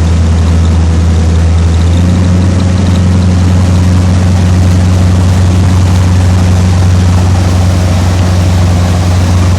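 Motorboat engine running steadily with a loud low drone, its pitch stepping up slightly about two seconds in, over a rush of wind and water noise.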